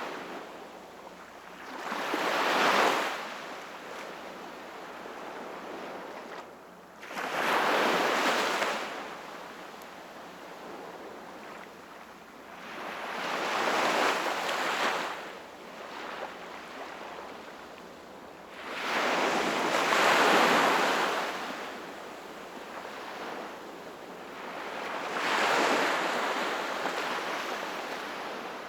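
Sea waves breaking on the shore five times, about six seconds apart. Each surge swells up and fades into a hissing wash, with a steady soft wash in between.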